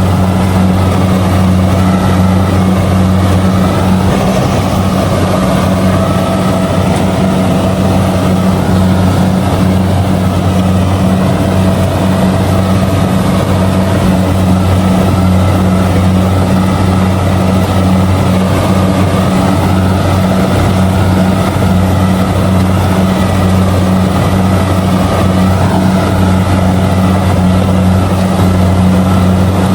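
Kubota DC70G combine harvester running steadily while harvesting rice: a loud, even diesel drone with a fainter wavering whine above it.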